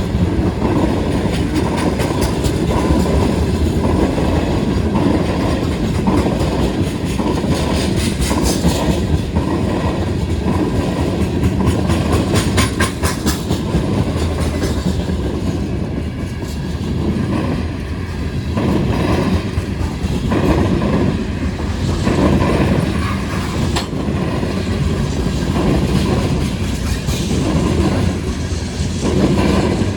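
Freight train cars rolling past close by, a steady rumble with bursts of wheel clicks over the rail joints.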